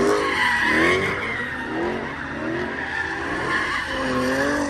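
Car tyres squealing on pavement during a burnout or donut, the squeal wavering up and down in repeated swells about every half second.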